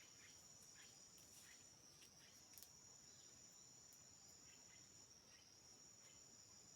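Faint, steady high-pitched trilling of insects in the rainforest, with a few faint ticks.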